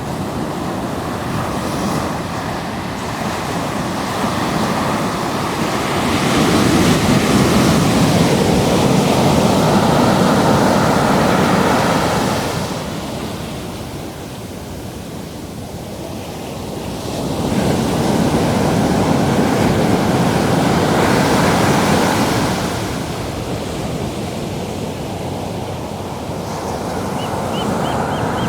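Pacific Ocean surf breaking and washing up at the water's edge. Two waves swell up and fade, each over several seconds, with a lower wash between them.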